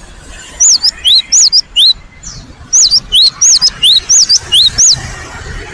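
Cinereous tit (gelatik batu) singing loudly. It repeats a two-note phrase, a high note followed by a lower rising one, in two quick bouts with a short pause between.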